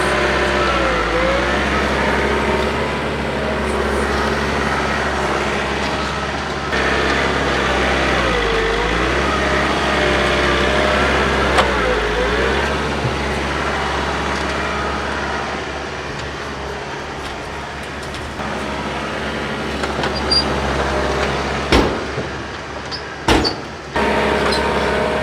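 John Deere 4052R compact tractor's diesel engine working steadily under load, dragging a Gannon box blade through dirt. Its pitch sags and recovers twice as the load comes on, and there are a couple of sharp knocks near the end.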